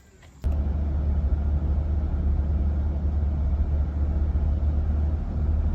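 A minivan driving, with a steady low rumble of road and engine noise heard inside the cabin. It starts abruptly about half a second in.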